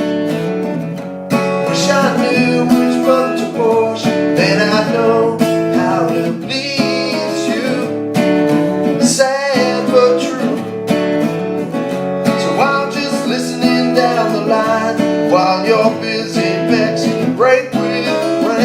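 Acoustic guitar strummed steadily, playing the accompaniment of a song.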